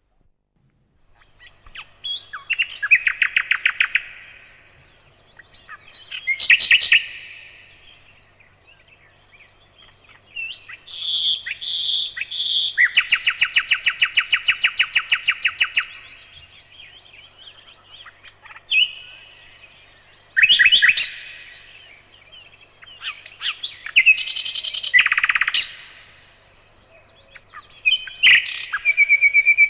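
Nightingale singing: a run of separate phrases of rapidly repeated notes and trills, with short pauses between them.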